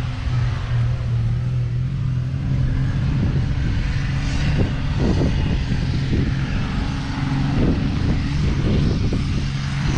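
Massey Ferguson 550's 2.5-litre three-cylinder Perkins diesel engine running at a steady speed, a constant low drone.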